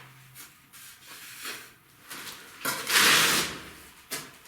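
Mason's trowel scraping and spreading mortar while bricks are laid in the first course, with a few light knocks. The longest and loudest scrape comes about three seconds in.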